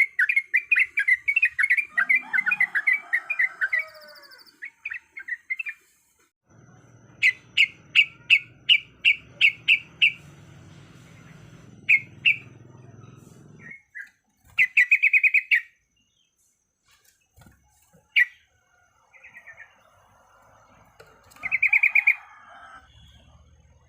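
Yellow-vented bulbul (trucuk) calling in quick runs of sharp chirps, several runs with short pauses between them. Softer notes from other birds sit underneath, and a low hum runs from about 6 s to about 14 s.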